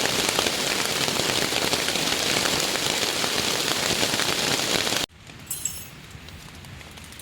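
Heavy rain falling steadily, a dense hiss of drops. It cuts off abruptly about five seconds in, leaving a much quieter background with a few light clinks.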